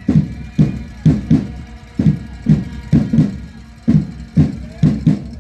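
A large drum beaten in a quick, uneven rhythm, about two or three deep hits a second.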